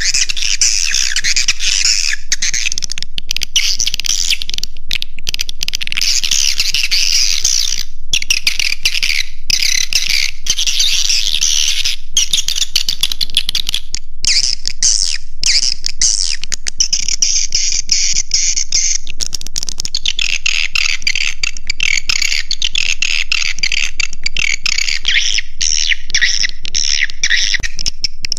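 Swiftlet calls, the roosting-call lure used to draw edible-nest swiftlets into a swiftlet house: a dense, continuous chatter of high chirps and twitters, broken now and then by sudden, very short gaps.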